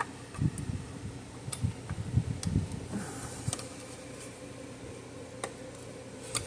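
Handling noise as a replacement discharge board and capacitor are worked into a fence charger's case: a run of low knocks and rubs in the first three and a half seconds and a few sharp clicks, over a steady hum.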